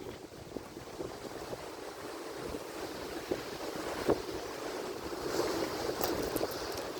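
Atlantic Ocean surf: a continuous rush of waves with small splashing ticks, and a brighter hiss of washing water about five seconds in.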